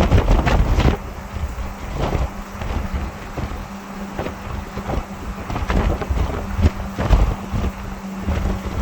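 Wind buffeting the microphone in irregular gusts, over a steady engine drone from farm machinery.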